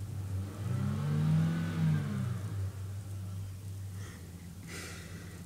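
Small car's engine idling, revved once while standing still: the pitch climbs and falls back over about two seconds, then returns to a steady idle. A short hissing noise comes near the end.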